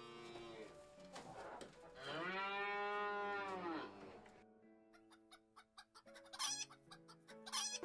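A rooster crows once, a long call that rises and then falls, followed by chickens clucking in short quick notes with a couple of harsher squawks near the end. Light background music runs underneath.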